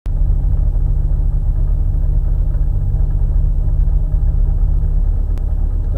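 Škoda 130 LR rally car's rear-mounted four-cylinder engine idling steadily, heard from inside the cabin.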